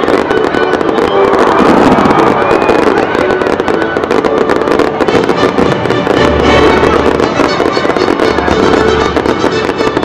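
Fireworks crackling and popping without pause, mixed with background music.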